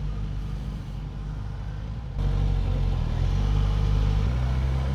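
Motorcycle engine running at low, steady revs, with a sudden step up in loudness about two seconds in.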